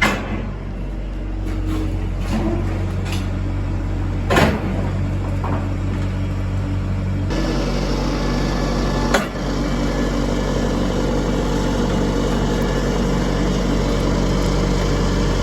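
Engine of the machine lifting an old car into a shipping container, running steadily, then working harder about seven seconds in. A few sharp metal clunks come from the load and its frames.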